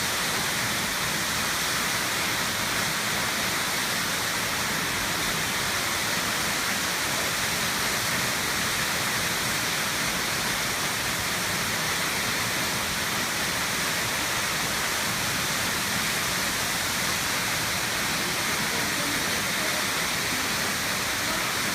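Waterfall: a steady, unbroken rush of falling water, its hiss strongest in the upper range.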